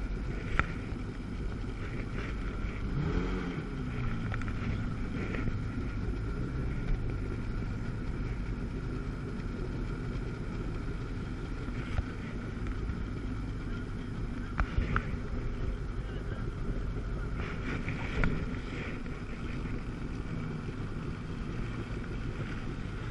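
Two-stroke personal watercraft engine running steadily out on the water, with wind buffeting the microphone and a few short sharp thumps scattered through.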